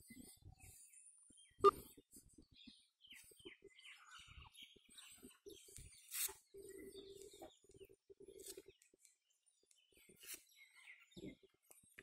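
Small birds chirping in scattered short calls over a quiet background, with one sharp click a couple of seconds in and a brief low hum in the middle.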